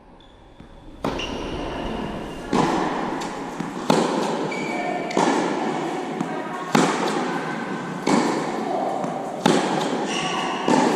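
Tennis ball struck back and forth with rackets in a rally, a hit about every one and a half seconds, each hit echoing.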